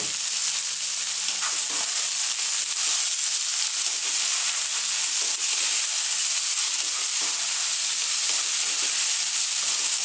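Tofu cubes, onions and just-added frozen peas sizzling steadily in a non-stick frying pan on high heat, while a wooden spatula stirs and scrapes through them with soft, irregular scrapes.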